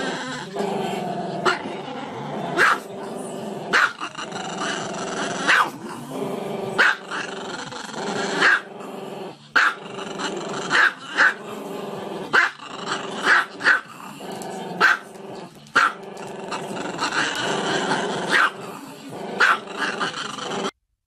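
A dog growling continuously, broken by sharp barks about once a second. The sound cuts off suddenly just before the end.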